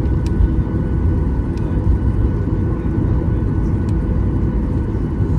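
Steady cabin rumble of a Boeing 737-800 with its CFM56 engines running, heard from inside the passenger cabin, with a few faint steady tones over the low roar and a few faint clicks.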